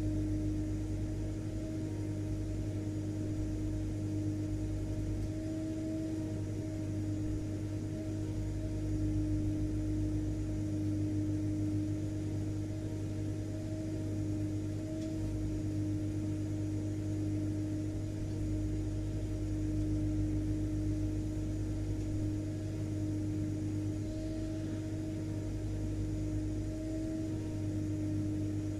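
Vacuum cleaner motor running steadily: a constant hum with one strong steady tone and a fainter higher one over a low rumble and even hiss.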